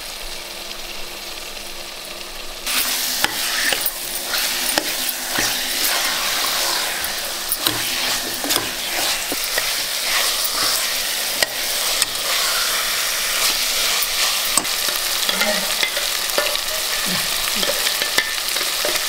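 Raw chicken pieces sizzling in hot oil and onion masala in a pressure cooker pot, stirred with a spatula that scrapes and clicks against the pot. The sizzle grows louder about three seconds in and stays steady.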